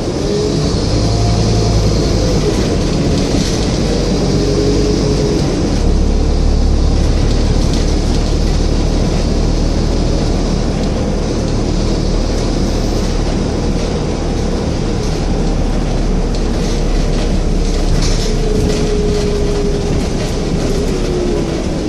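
Scania N230UD double-decker bus under way: the engine runs steadily, with its note shifting about six seconds in. A whine from the driveline rises and falls over road noise and rattles.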